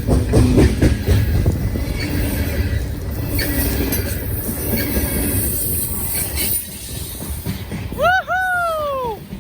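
CSX coal train's diesel locomotives and rail cars rumbling along the track, easing off somewhat toward the end. Near the end comes a short, two-part whistle-like sound that jumps up and then slides down in pitch.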